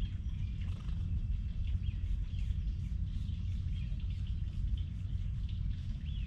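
Small birds chirping and calling over a steady low rumble.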